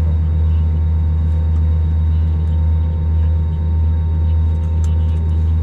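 Steady low drone with a constant hum inside an Airbus A321 passenger cabin, from the aircraft's running engines and air systems during pushback and engine start.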